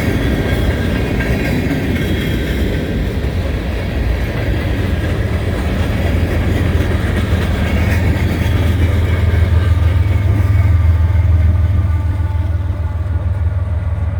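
Freight train rolling past at speed, cars running over the rails, with a deep diesel-engine rumble from the rear distributed-power locomotive working hard that swells to its loudest about eight to twelve seconds in.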